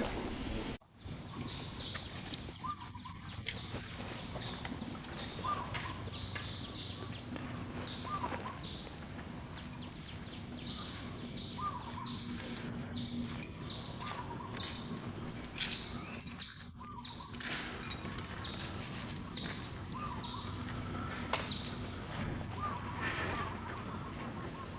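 Outdoor ambience with short chirping animal calls every second or two, over a steady background hiss and hum, with scattered small clicks.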